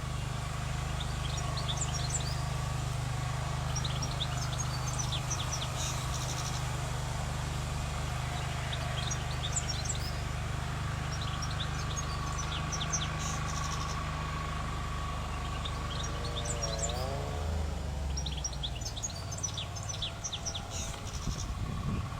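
European goldfinch singing in repeated bouts of quick, high twittering phrases, over a steady low hum.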